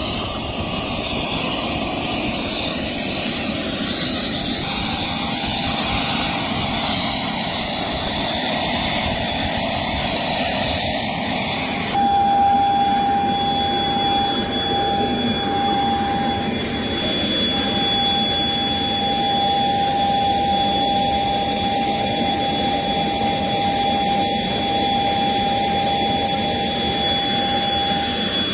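Jet aircraft engine running steadily, a continuous rushing noise. About twelve seconds in, the sound changes and a steady high whine comes in and holds.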